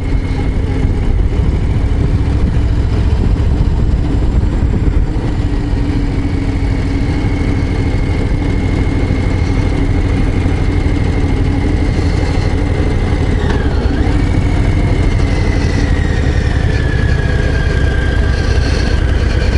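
Harley-Davidson Low Rider ST's Milwaukee-Eight 117 V-twin running steadily while the bike is ridden, with a heavy low rumble. A faint high whine dips briefly and then slides lower in pitch near the end.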